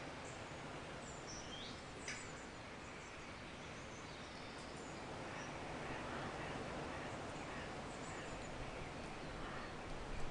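Nature-sound ambience: small birds chirping now and then over a steady hiss of background noise.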